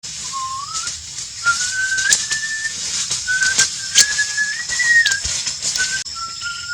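Someone whistling a simple tune, one clear note at a time, with held notes stepping up and down in pitch. Under it runs a steady high hiss, with sharp clicks or crackles here and there.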